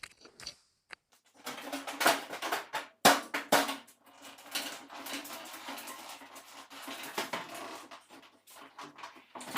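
Irregular clicks, knocks and rattles of handling the reassembled electric dryer, over a faint steady hum; the dryer is not yet running.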